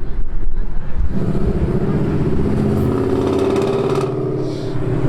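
A car engine runs with a steady droning note that starts about a second in and holds for a few seconds over a low rumble.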